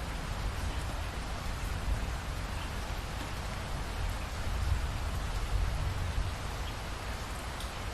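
Steady rain falling, with a low rumble underneath that swells about halfway through.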